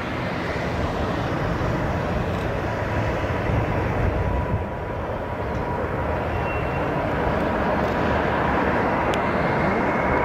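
Jet engine roar of a Boeing 747 on approach, steady and broad, with a thin whine that rises slowly through the second half.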